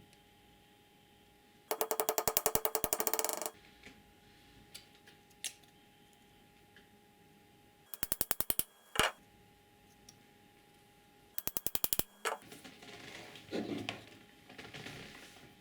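Rapid ratchet-like mechanical clicking in three short bursts, followed by softer handling and scraping noises.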